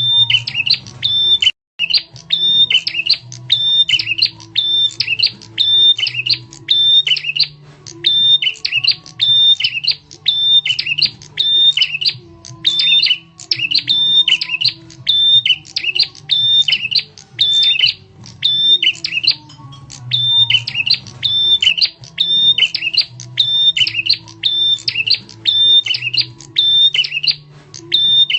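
Prenjak tamu bird call, loud and sharp: a high, flicking note repeated evenly about one and a half times a second, as a looped lure call.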